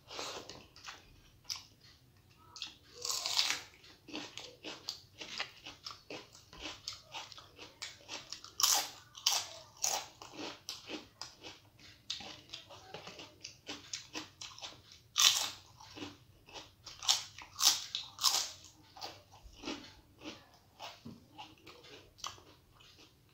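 Close-up chewing with a dense run of sharp, crisp crunches as fried papad is bitten and chewed, the loudest bites coming about nine seconds in and again in a cluster past the middle.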